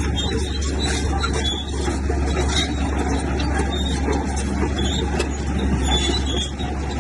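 Heavy diesel earthmoving machinery running steadily under load, with a continuous deep drone and a rough, rattling noise over it.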